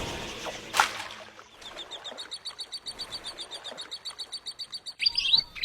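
A rapid, even trill of short high-pitched calls, about eight a second, from a calling animal, with a single loud chirp about a second in and a few quick rising bird chirps near the end.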